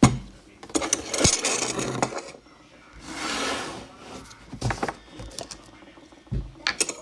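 Objects being handled on a table: a sharp knock, stretches of rustling and scraping, and several clicks and thumps near the end.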